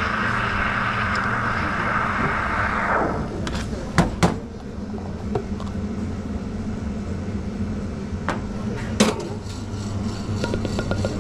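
Espresso machine steam wand hissing steadily, then cutting off abruptly about three seconds in. Sharp knocks follow, two close together about a second later and one more a few seconds after, over a steady low hum.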